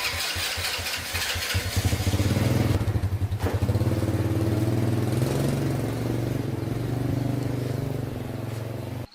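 Small motorbike engine starting: a few separate firing strokes that pick up within about two seconds into a steady run, the revs easing up and down a little, then stopping abruptly near the end.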